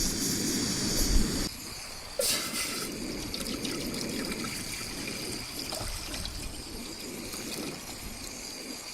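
Steady rushing of water mixed with wind on the microphone, a little louder for the first second and a half, with a brief louder gust about two seconds in.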